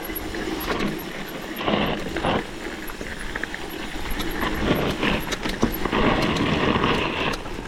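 Mini motorcycle engines running along a dirt trail, mixed with uneven rattling and wind noise that swells louder in the last couple of seconds.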